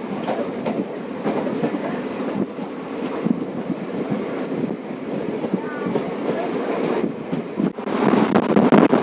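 Passenger express train running along the track, a steady rumble with the wheels clicking over rail joints. The sound turns abruptly louder near the end.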